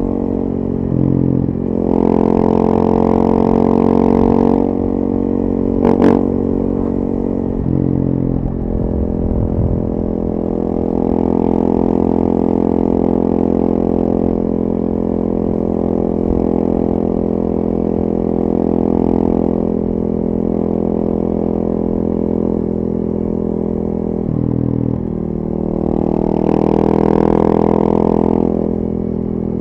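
A 2014 KTM 450 EXC supermoto's single-cylinder four-stroke engine running through its FMF 4.1 exhaust, mostly at a steady engine speed while riding. The engine briefly dips and then picks up again a few times, with louder throttle surges near the start and near the end. There is one sharp click about six seconds in.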